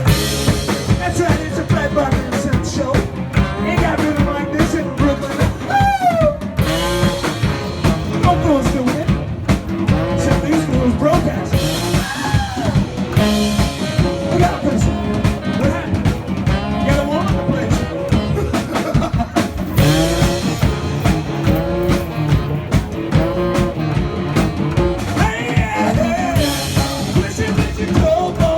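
Live band playing with a steady drum-kit beat, guitar and singing.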